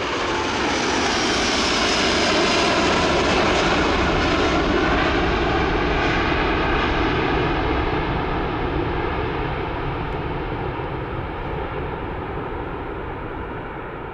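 Jet engines of an Airbus A330-900 running at high power as the airliner passes: a steady roar with faint wavering tones that swells over the first few seconds and then slowly fades.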